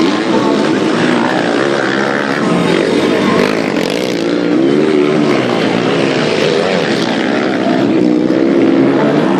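Several motocross bikes racing, their engines revving up and down and overlapping in a continuous buzz.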